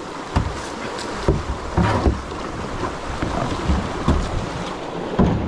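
Rushing water of creek rapids around a kayak, with several knocks.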